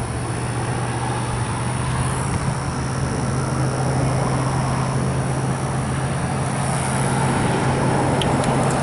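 A steady low hum over an even rushing noise, as of machinery running close by.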